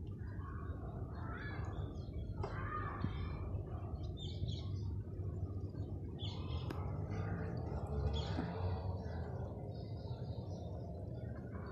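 Scattered bird calls and chirps, some fairly high, over a steady low rumble.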